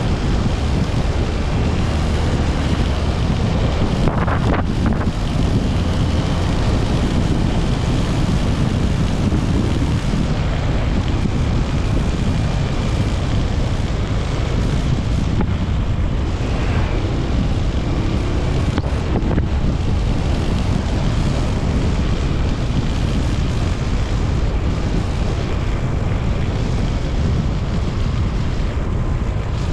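Steady wind rushing over the microphone of a Honda TMX 125 Alpha motorcycle under way, with the bike's engine and road noise underneath.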